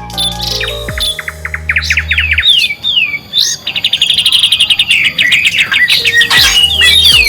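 Songbird singing a rapid series of chirps, then downward-slurred notes and a fast, dense trill that builds after about four seconds, over low held background music. This is the kind of birdsong recording played to caged songbirds to set them singing.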